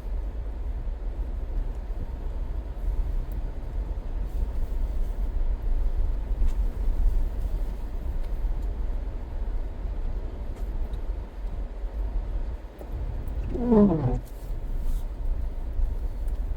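Steady low rumble of a car driving, heard from inside the cabin. About fourteen seconds in comes one brief call whose pitch falls.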